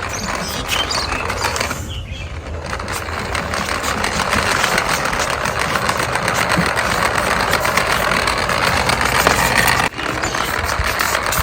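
Small electric motor of a remote-control toy running with a steady whir, dipping briefly about two seconds in and cutting out for an instant near the end.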